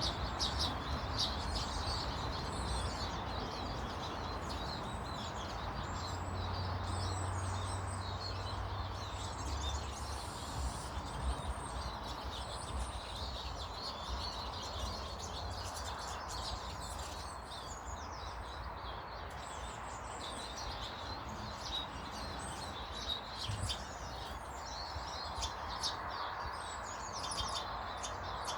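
Several small birds chirping and calling in short, frequent notes over a steady background noise.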